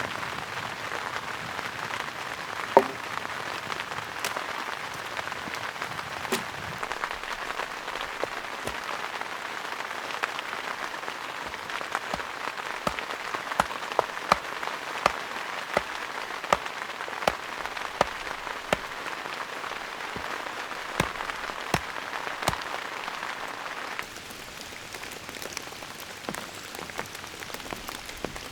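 Steady rain with frequent sharp drop impacts tapping on a surface. The rain hiss drops suddenly to a lower level near the end.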